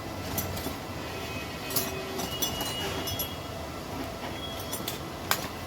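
Small sharp clicks and snaps of hand tools and connector parts being handled, over a steady background rumble.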